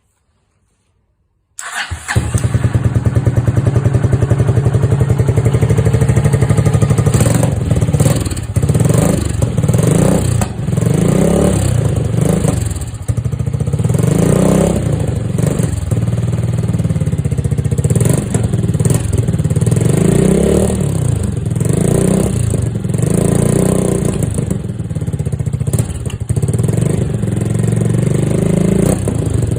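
Honda SL230's single-cylinder four-stroke engine breathing through a Supertrapp muffler. It starts up about a second and a half in and settles to a steady run. From about a quarter of the way in, the throttle is blipped again and again, each rev rising and falling.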